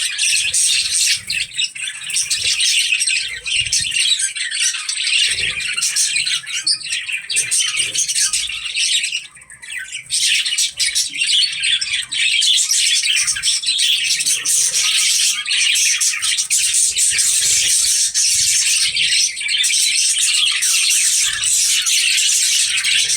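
Budgerigars chattering, a dense run of quick chirps, warbles and squawks, with a short break about nine seconds in.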